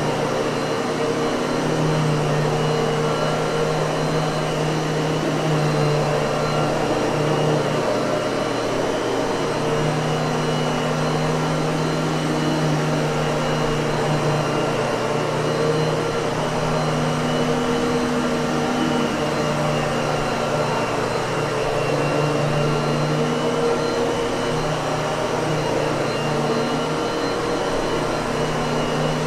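Miele vacuum cleaner running steadily: a constant rush of air over an unchanging motor hum.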